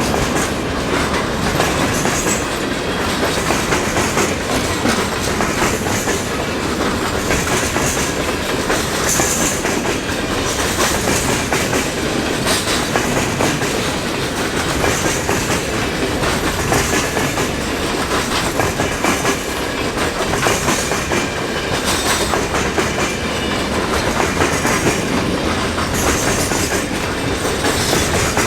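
Freight cars of a mixed freight train rolling steadily past, the wheels rumbling on the rails and clicking over the joints. The wheels are running on iced-over railheads.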